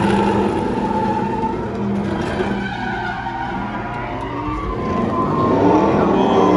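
Car engine revving, its pitch sliding down and up, easing off in the middle and climbing again near the end.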